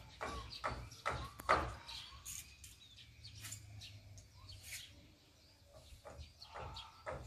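Small birds chirping, with scattered short, sharp clicks or taps, denser in the first couple of seconds and again near the end.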